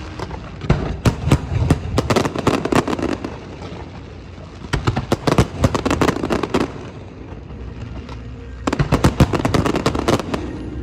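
Aerial fireworks going off in three rapid volleys of bangs and crackling, each lasting about two seconds, with short lulls between.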